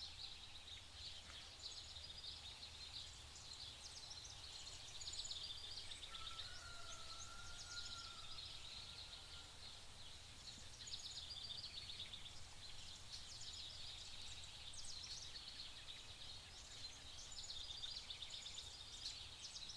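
Faint chorus of many birds chirping rapidly, with one longer wavering whistle about six seconds in, over a low steady hum.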